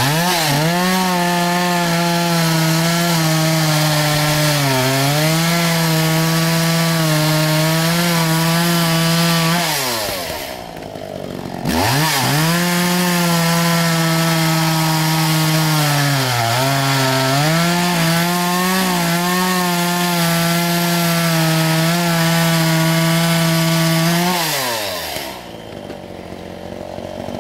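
Chainsaw cutting pecan wood: it revs to full throttle, the pitch sags once as the chain bites into the log, then drops back to idle. It revs up again for a second cut about twelve seconds in, sags once more, and falls back to idle near the end.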